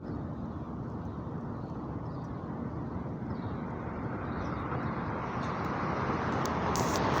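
A passing car on the road: a steady rush of tyre and engine noise that grows louder as the car approaches.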